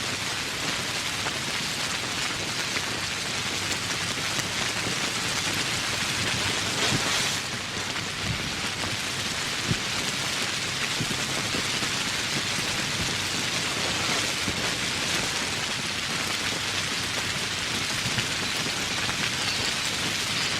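Steady, dense rain falling, an even hiss of many drops. It eases briefly about seven seconds in.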